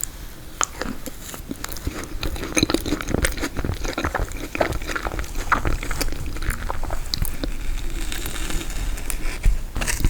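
Close-miked chewing and biting of frozen tiramisu, a steady run of small crunchy, crackling clicks from the frozen cake in the mouth.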